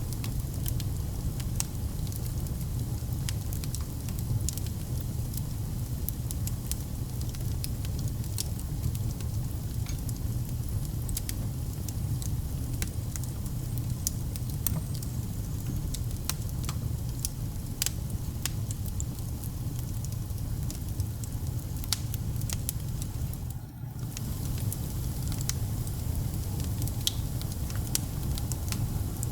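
Wood fire burning in a fireplace: a steady low rumble of flame with frequent, irregular crackles and pops. The sound dips briefly about three-quarters of the way through.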